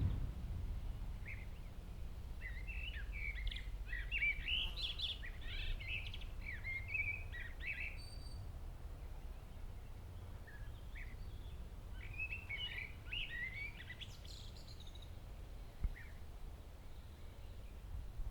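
Small birds chirping and twittering in two spells, the first a couple of seconds in and the second about two-thirds of the way through, over a steady low rumble.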